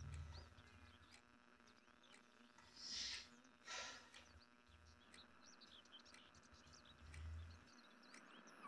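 Faint birds chirping over quiet room tone, with two brief soft noise bursts about three and four seconds in.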